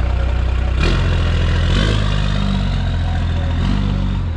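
A 1991 pickup's 12-valve diesel engine idling with a deep, steady tone. Its pitch shifts slightly about a second in and again near two seconds.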